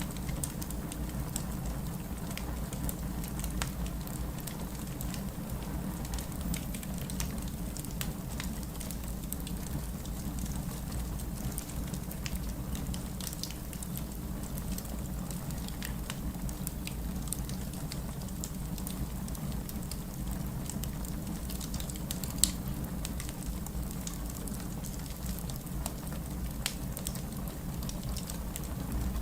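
Wood fire crackling, with scattered sharp pops and one louder pop about two-thirds of the way through, over a steady rain and low city rumble.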